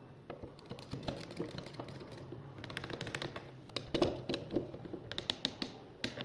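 Irregular light clicks and taps over a faint steady hum, with the loudest cluster of knocks about four seconds in.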